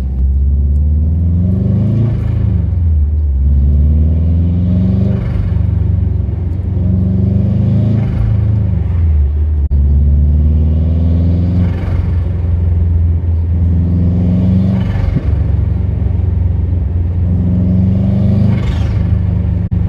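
Subaru Forester STI's turbocharged flat-four engine and exhaust, revs climbing and dropping again about six times, as when accelerating through gears. A brief hiss comes at several of the drops, the turbo's blow-off valve venting as the throttle closes.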